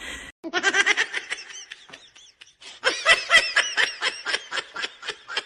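A person laughing hard in rapid, high-pitched bursts, in two bouts with a short pause about halfway.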